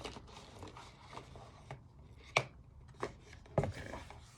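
Small makeup products and their packaging being handled and set down on a hard surface: a few sharp taps and knocks, with light rustling between them.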